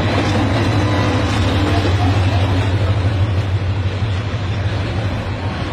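Diesel-hauled passenger train passing close by, its coaches rolling along the track with a steady low rumble and wheel-and-rail noise.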